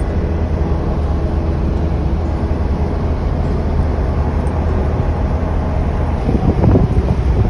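A car driving along a road: steady engine and tyre rumble. It turns louder and more uneven in the last second and a half.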